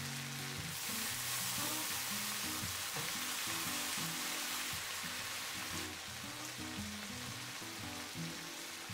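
Dakgalbi (spicy chicken, cabbage and rice cakes) sizzling on a hot griddle plate, a steady frying hiss that grows louder about a second in and eases a little around six seconds. Background music plays underneath.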